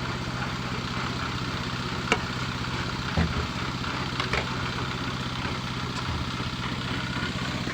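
An engine running steadily at idle, with a sharp click about two seconds in and a few knocks and clinks a little later.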